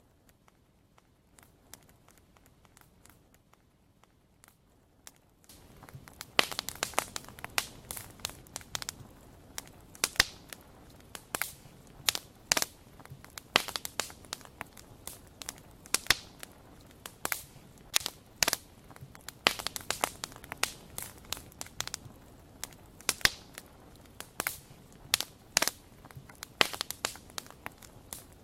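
Wood fire crackling and popping with many sharp, irregular snaps. It is faint at first, then jumps louder about five seconds in.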